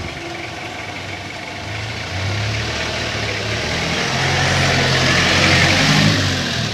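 A motor vehicle's engine running, with a steady low drone and a rushing noise that grows louder over several seconds, peaks near the end, then drops away.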